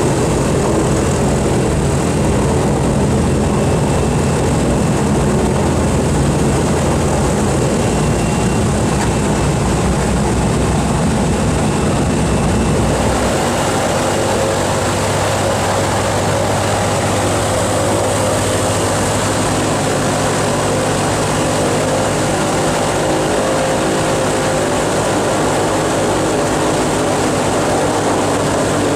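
B-29 Superfortress's four Wright R-3350 radial piston engines running steadily with propellers turning, loud throughout. About 13 seconds in the engine note changes, the deep rumble dropping away and a steadier, higher hum taking over.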